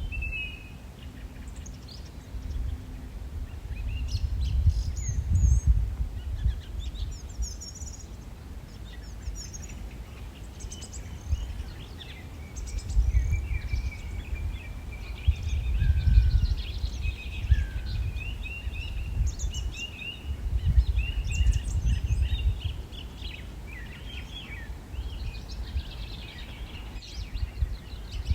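Several wild birds chirping and singing in short calls and trills, over a low rumble that swells and fades several times.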